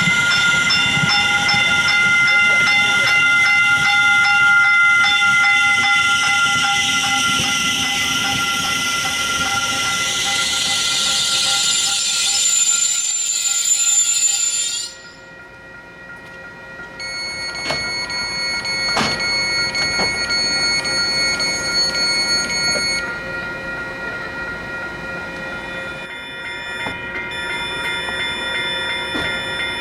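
Train sounds: a loud, rising hiss with several steady high-pitched tones over it, cutting off suddenly about halfway. Then quieter steady tones with a few sharp clicks.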